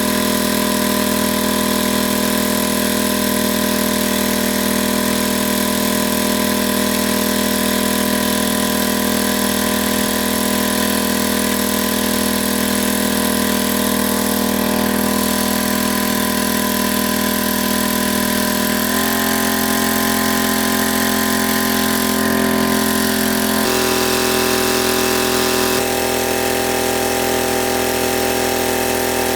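Small engine running steadily at a constant speed, its pitch stepping to a new level twice in the second half.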